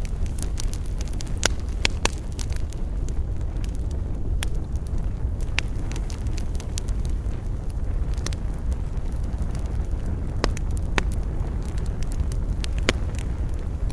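Wood fire burning: a steady low rumble of flames with sharp crackles and pops at irregular moments, a few close together about a second and a half in and again near the end.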